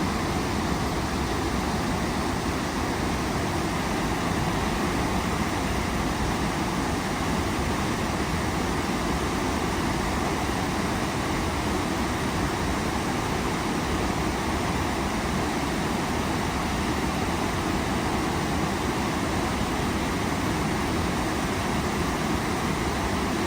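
Waterfall: a steady noise of falling water, unchanging throughout.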